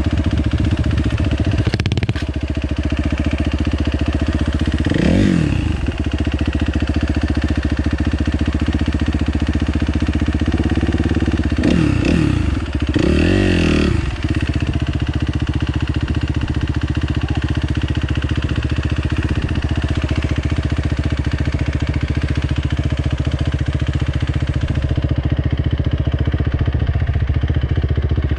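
Motorcycle engine running steadily. Its note rises and falls briefly about five seconds in, and twice more around twelve to fourteen seconds in.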